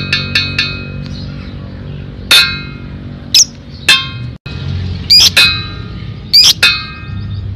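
Lovebird calling: a fast run of repeated shrill notes, its ngekek chatter, fades out in the first second. Sharp, piercing single calls follow, some in quick pairs, about once a second, over a low steady hum.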